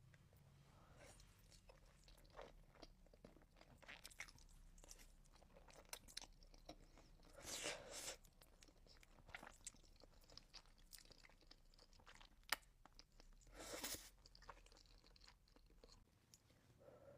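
A person eating close to the microphone: faint chewing with small wet mouth clicks, and two louder crunching bites, one about halfway through and one later.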